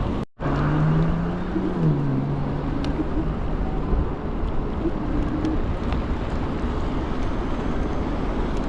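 Steady wind rush and road rumble while riding an electric scooter, with a faint low hum that steps down in pitch for a couple of seconds early on. The sound cuts out for a split second right at the start.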